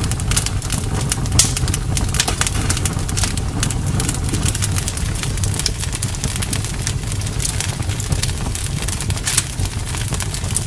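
Campfire crackling: many sharp, irregular pops and snaps over a steady low rumble.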